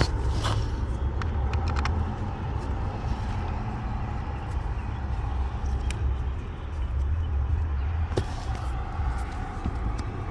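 Steady low rumble with a few short, sharp clicks of a plastic blower-motor cover and its bolts being handled and fitted.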